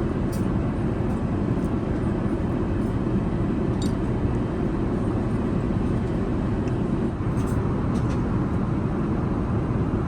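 Steady low rumble of an Airbus A380 airliner cabin, engine and airflow noise, with a few faint clicks.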